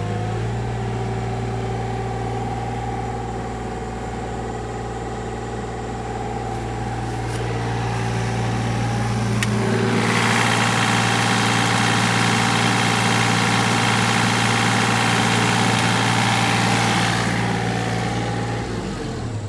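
Three-cylinder Yanmar diesel engine of a 2006 Yanmar B27 mini excavator running at a steady speed. About halfway through, a louder rushing hiss joins in for roughly seven seconds, then fades a couple of seconds before the end.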